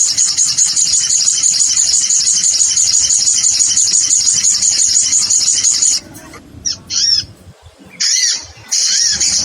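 Recorded sogon bird lure calls: a continuous, rapid, high-pitched twittering that breaks off about six seconds in. A few separate arched chirps follow, and the twittering returns near the end.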